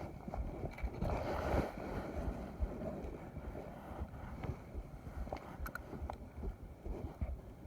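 Low, fluttering wind rumble on the microphone over outdoor ambience on the water, with a brief louder rush of noise about a second in and a few faint clicks near six seconds in.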